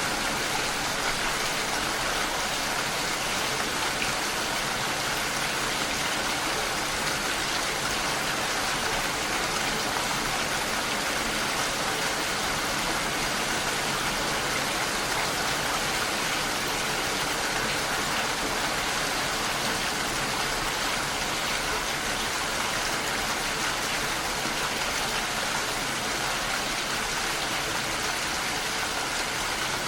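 Steady rain falling: an even, unbroken hiss with no letup.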